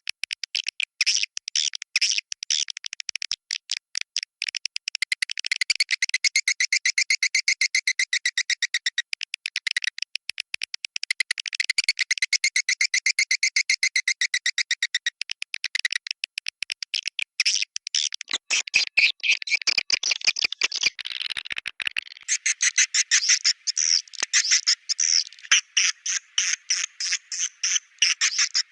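Swiftlet calls: a dense run of rapid, high chirping pulses, many each second, going on without a break; in the last few seconds the pulses come louder and more sharply separated.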